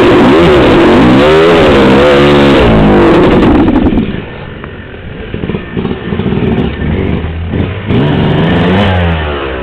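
Dirt bike engine revving up and down, then dropping to a lower, steadier run about four seconds in, with another brief rev near the end.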